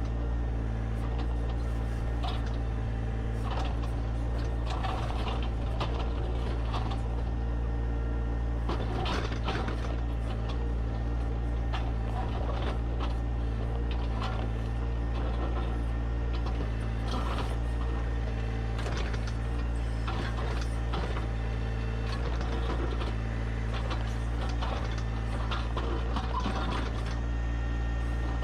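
John Deere 1025R compact tractor's three-cylinder diesel engine running steadily, with irregular metallic clanks and rattles over it.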